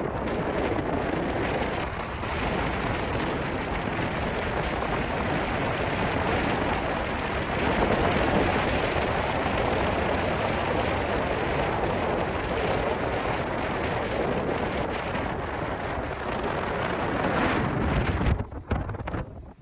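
Cyclone-force wind buffeting the microphone: a dense, steady rush of noise that drops away sharply near the end.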